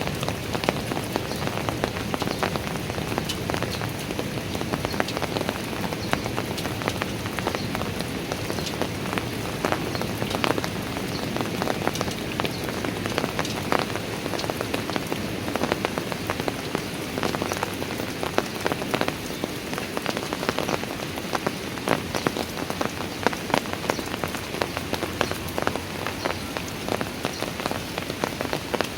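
Steady rain falling on stone park stairs, with a constant hiss and dense, sharp splats of individual drops striking the steps.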